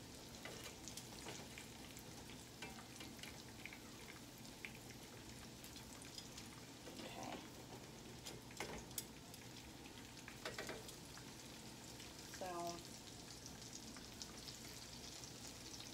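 Breaded eggplant slices frying in oil in a skillet: a faint, steady sizzle with scattered crackles and pops.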